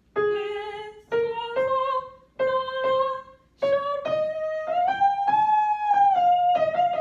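Soprano singing with vibrato over piano: a rising line of short separate notes, then a held higher note that slowly falls away.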